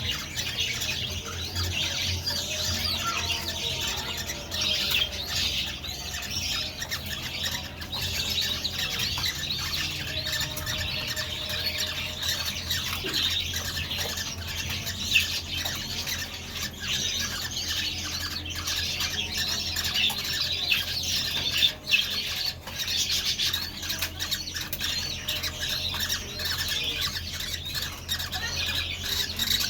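A dense, continuous chorus of chirps and squawks from many caged birds in a loft, over a steady low hum.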